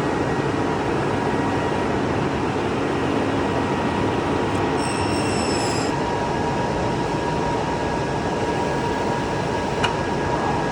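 Steady machine noise from a CNC glass-cutting machine, with a constant whine under it. A brief high squeal comes about five seconds in, and a single sharp click near the end.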